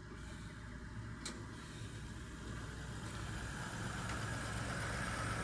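Car engine running at low revs, a steady low rumble that grows louder toward the end, with a short click about a second in.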